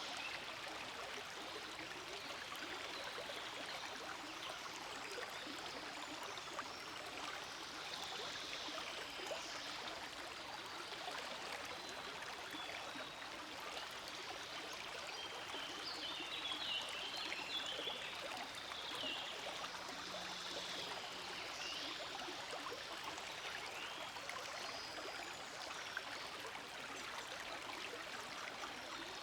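Forest stream flowing steadily, a continuous rushing of water, with a few brief high chirps now and then.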